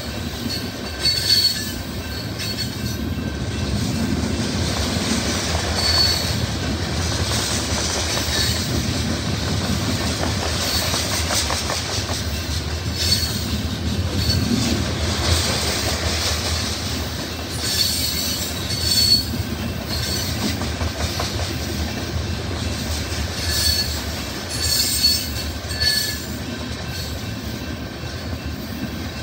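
BNSF grain train of covered hopper cars passing at speed: a steady rumble and rattle of wheels on rail, with brief high-pitched wheel squeals at irregular moments.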